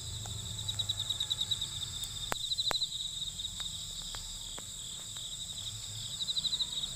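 Crickets chirping: a steady high trill that swells into rapid pulsing bursts a few times, with a few sharp clicks in the middle and a low hum underneath.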